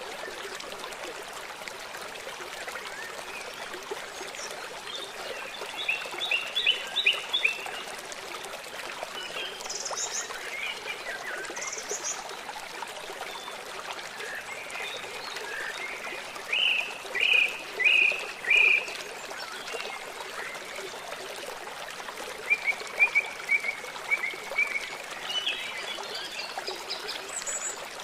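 Forest birds singing in short runs of repeated chirps over the steady rush of a stream. The loudest is a phrase of four notes about two-thirds of the way through.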